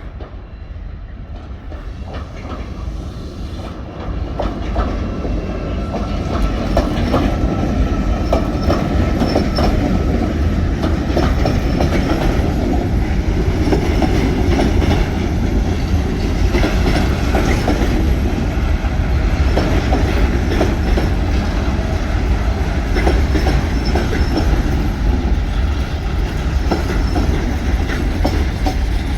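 A train running close by on the main line, its wheels clicking over rail joints and pointwork above a heavy rumble. It grows louder over the first several seconds, then stays loud and steady.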